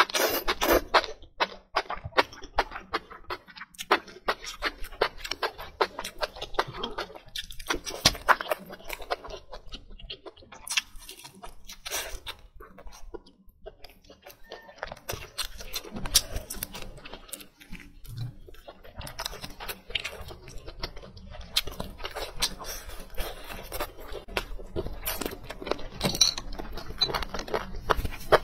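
Close-miked chewing of braised chicken and enoki mushrooms: irregular short mouth clicks and smacks following one another throughout.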